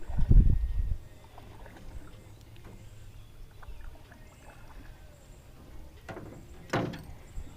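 Low thumps and knocks of people moving about in a small jon boat, then a quiet stretch, with a short sharp knock near the end.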